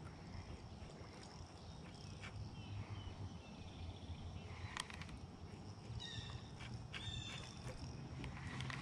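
Faint outdoor pond-side ambience with a low rumble throughout. A bird calls a few short chirping notes from about six seconds in, and there is a single tick just before that.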